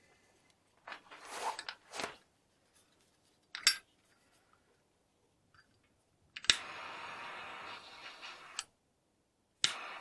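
A few short cuts and clicks as the excess nylon recoil starter cord is trimmed. Then a butane torch lighter is clicked alight, and its jet flame hisses steadily for about two seconds. It is clicked and lit again near the end.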